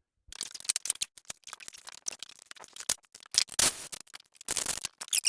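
Hands-on shop work: irregular clicks, rattles and short scraping sounds of parts being handled, with two longer scrapes about three and a half and four and a half seconds in.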